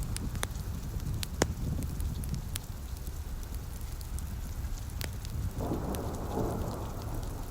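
Fireplace crackling with scattered sharp pops over steady rain and a low, continuous rumble. A denser rushing patch of sound comes in about five and a half seconds in.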